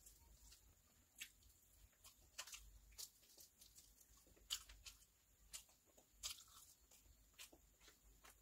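Quiet, close-miked eating sounds of someone chewing mouthfuls of biryani rice eaten by hand: soft chewing with sharp wet mouth clicks at irregular intervals, about one a second.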